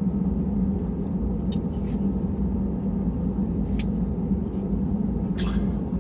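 Steady low drone inside an Airbus A320 cabin on the ground, with a constant hum, and a few brief soft rustles over it.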